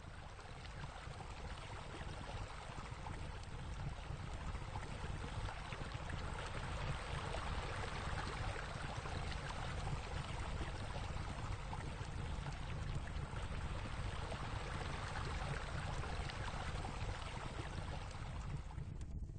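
Steady rushing water with a low rumble underneath, fading in over the first few seconds and fading out near the end.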